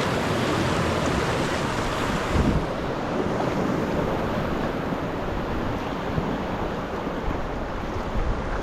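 Sea waves washing around a sea kayak, with wind buffeting the microphone: a steady rush of water and wind noise.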